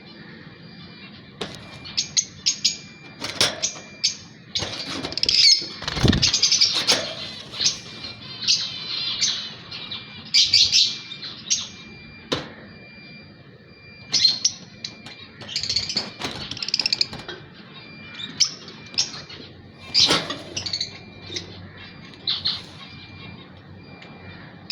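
Male parblue ino cage bird chirping: a long run of short, sharp, high-pitched chirps in irregular clusters, with brief pauses between bouts.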